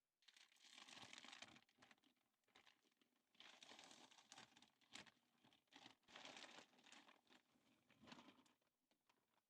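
Faint crinkling and rustling in four bursts, with small clicks between them.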